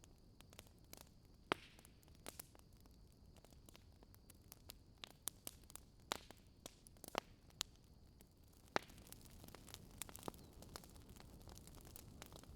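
Fireplace crackling, faint: irregular sharp pops and snaps over a low steady hiss.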